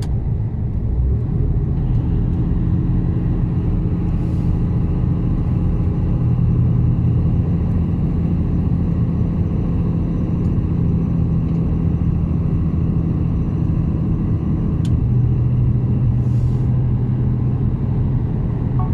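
Mercedes-Benz Actros truck's diesel engine running steadily, a low drone heard from inside the cab on a mountain descent. Two faint short hisses come about four seconds in and near the end.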